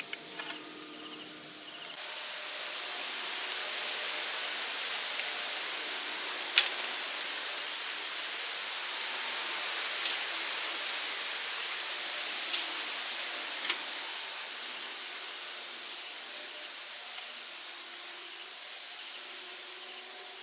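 A steady hiss that starts about two seconds in, with a few sharp clicks scattered through it.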